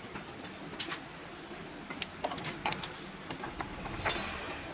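Scattered light metallic clicks and taps from hand tools working on an opened motorcycle engine while the timing chain tensioner is tightened, over a steady low background noise.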